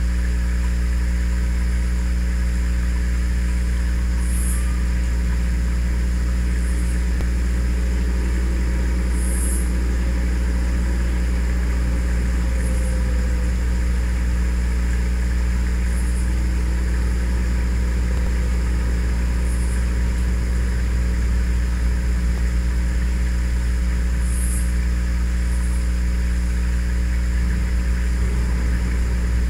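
A vehicle engine idling steadily: a low, even drone that holds the same pitch throughout. Faint short high chirps come every few seconds.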